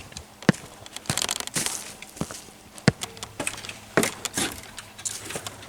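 Footsteps crunching on a woodland trail, with a few sharper knocks among the irregular steps.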